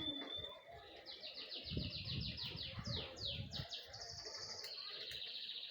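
Bird song: a fast run of short, downward-slurred high notes starting about a second in. The notes speed up and then run into a steady high trill.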